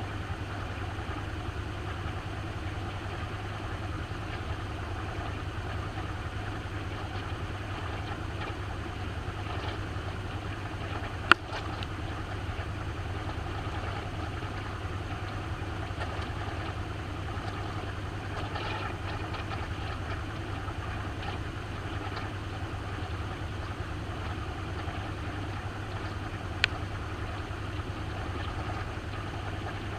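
Maytag washing machine running with a steady hum, heard from inside the tub. Two sharp clicks stand out, one about a third of the way in and a fainter one near the end.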